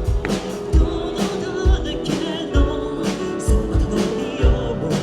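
Live band playing a song with a singer, drums hitting a beat under sustained instrument chords.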